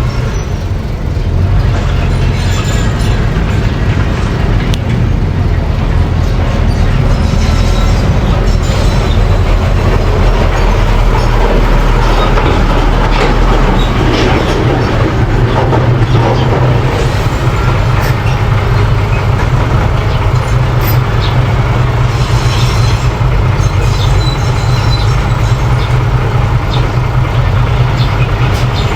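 Mini bulldozer running steadily at work: a constant engine drone with metallic clanking over it.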